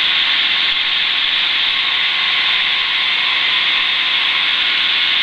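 Steady in-flight cabin noise of a Schweizer 300CBi light piston helicopter in cruise: an even rushing noise with a faint steady hum, unchanging throughout.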